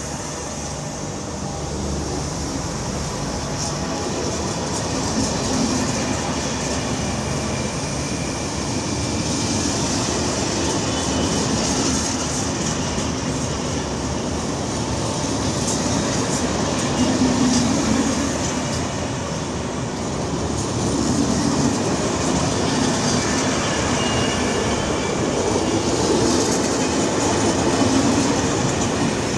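SNCF TER passenger coaches rolling past as the train pulls out of the station, a steady rumble of wheels on rail with faint clicks over the rail joints, growing gradually louder as it gathers speed.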